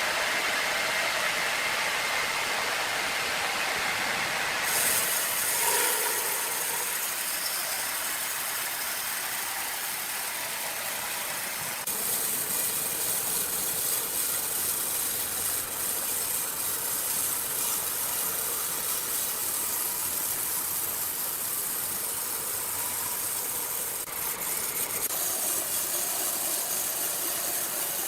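Sawmill machinery running: a steady mechanical clatter and hiss. The sound changes abruptly about 5, 12 and 24 seconds in.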